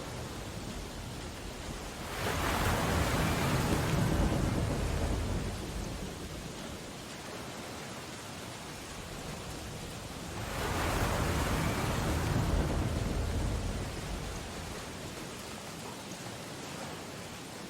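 Steady rain on window glass over a constant ocean surf, with two heavy waves crashing, about two seconds in and again just past the middle; each rises quickly with a deep rumble and slowly fades.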